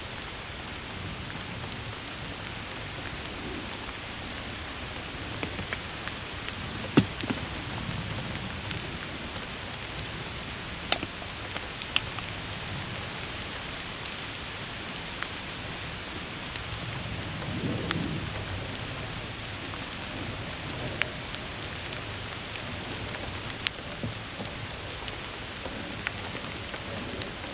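Steady rain falling, an even hiss with scattered sharp ticks, the loudest about seven seconds in. Low swelling rumbles come and go twice, around seven to nine seconds and again around seventeen to nineteen seconds.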